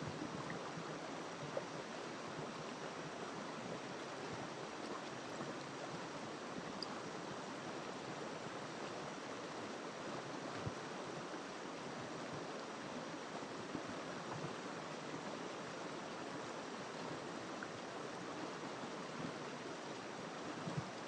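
River water flowing steadily: an even, continuous rush with no change, and a couple of brief, slightly louder moments.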